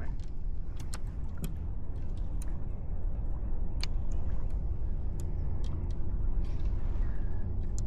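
Wind rumbling on the microphone, with scattered small clicks and ticks from handling on the kayak.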